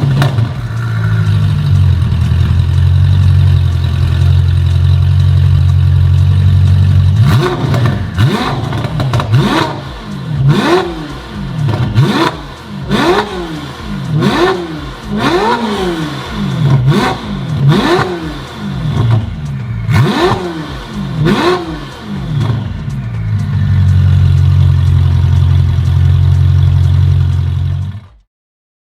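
Ferrari 488 Pista's twin-turbo V8 through a Brooke race exhaust, stationary: it idles steadily, is blipped in a string of about ten quick revs that rise and fall in pitch, then settles back to idle before cutting off near the end.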